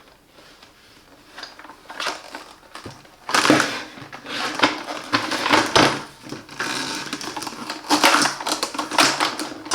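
Hard plastic parts of a Bosch bagless vacuum cleaner being handled and fitted together, with irregular clicks, knocks and rattles. The motor is not running.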